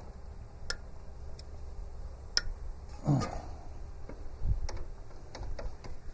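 Hand ratchet wrench loosening steel bolts: scattered sharp metallic clicks at irregular spacing, with a short dull knock about halfway through.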